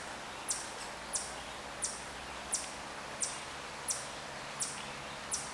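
A small bird repeating a short, very high chip call at an even pace, about once every 0.7 seconds, over a faint steady hum.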